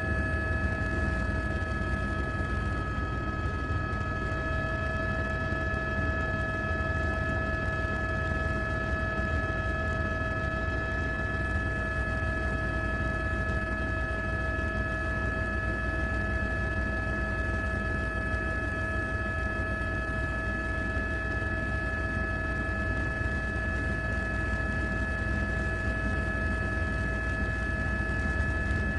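A steady mechanical hum: several constant high whining tones over a low rumble, unchanging throughout.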